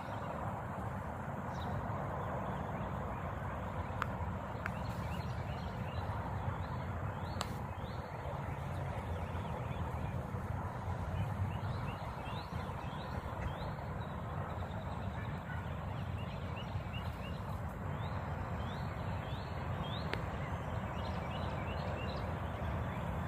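Birds chirping in short, quick calls over a steady outdoor background hiss.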